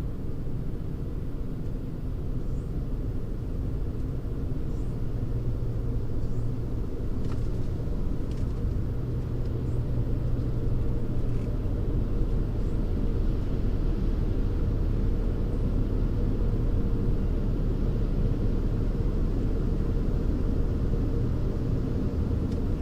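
Steady low rumble of a car's engine and running gear, heard inside the cabin while the car creeps forward at low speed.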